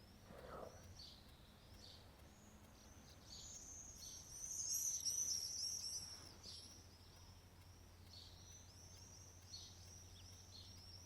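Small birds chirping and twittering in quick, short, falling chirps, busiest and loudest about four to six seconds in, then continuing more sparsely.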